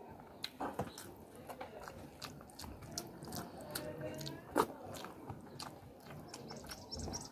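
Close-up chewing and wet mouth sounds of someone eating rice by hand: irregular smacking clicks, with one sharper click about four and a half seconds in.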